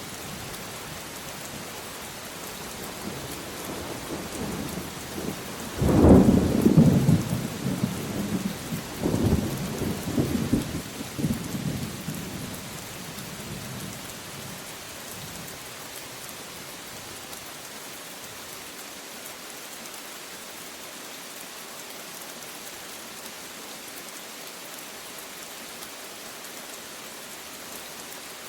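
Steady rain hissing, with a thunderclap that builds from about four seconds in, cracks sharply near six seconds, rolls on in a couple more surges and dies away well before the end.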